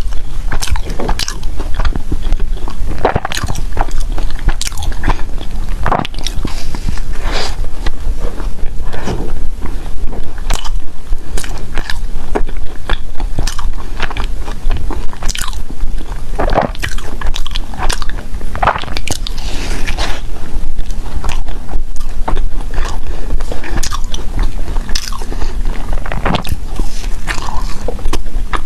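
Close-miked mouth sounds of someone eating: bites and continuous chewing with irregular crunchy, crackly clicks.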